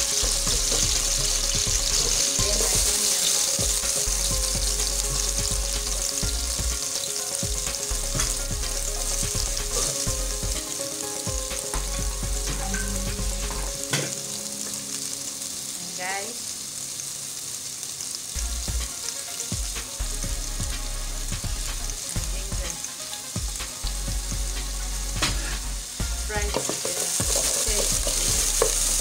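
Chopped red onions frying in hot vegetable oil in a metal pot, a steady sizzle, with the onions stirred and a few knocks of the stirring utensil against the pot. The sizzle is quieter in the middle and louder again near the end.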